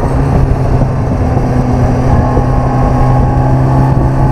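Yamaha FJR1300's inline-four engine running at a steady cruise while the bike is ridden, holding one even pitch with no revving.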